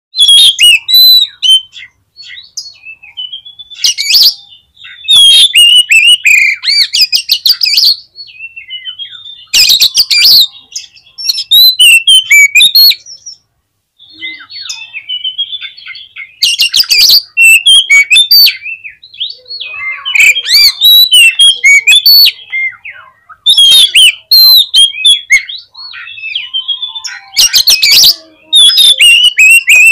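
Oriental magpie-robin (kacer) in full, loud song: varied high whistled and warbled phrases, broken every few seconds by bursts of rapid, harsh clicking chatter.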